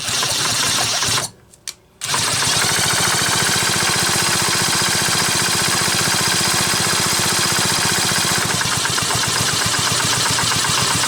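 Homelite Super XL chainsaw engine spun over with the spark plug out: a short first spin, then a steady spin of several seconds with a fast, even rattle. It is rough, the sign of a bad crankshaft bearing.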